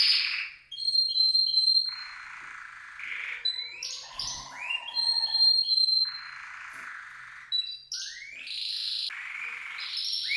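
Domestic canary singing: rapid buzzy rolls alternating with clear whistled notes and a few quick upward sweeps.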